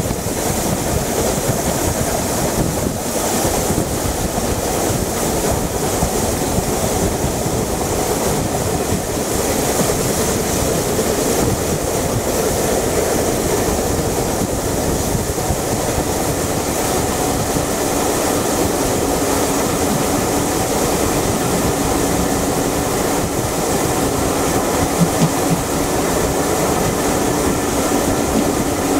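Steam-hauled passenger train at speed heard from an open carriage window: the coaches' wheels running on the rails and air rushing past, a steady, even noise. A faint steady tone joins in a little past halfway.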